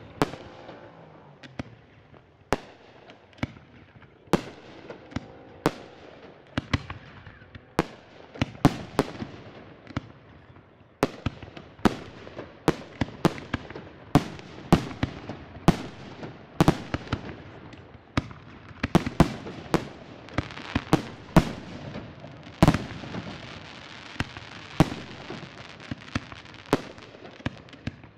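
Aerial firework shells bursting in a long, irregular succession of sharp bangs, coming thicker in the second half, with crackling between the bangs near the end.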